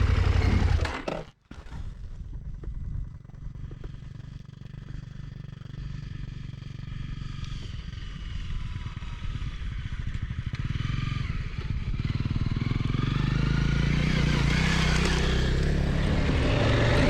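KTM motorcycle on the move, engine and wind noise on the rider's microphone. The sound drops out almost completely about a second in, then builds back steadily louder over the rest.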